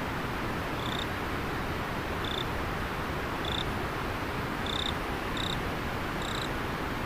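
River water flowing steadily, with an insect giving six short, high chirps about a second apart.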